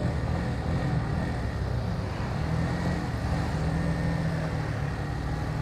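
Motorcycle engine running steadily while under way, with road and wind noise.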